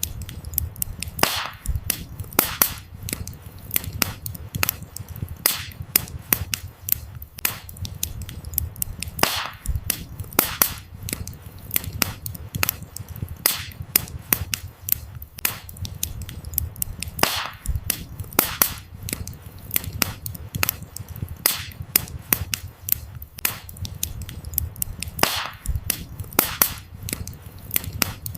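Wood fire burning with a low steady rumble of flames and frequent irregular crackles and sharp pops from the firewood, a few of them louder snaps.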